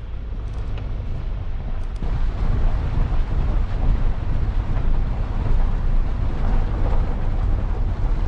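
Steady rumble of a car driving, with wind buffeting the microphone; it grows louder about two seconds in.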